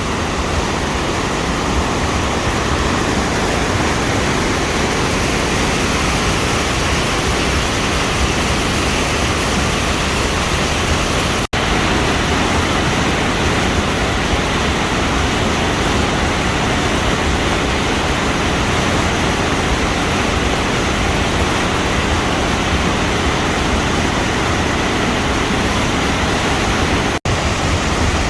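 Flood-swollen waterfall running as a loud, steady rush of water. The sound cuts out for an instant twice, about a third of the way in and near the end.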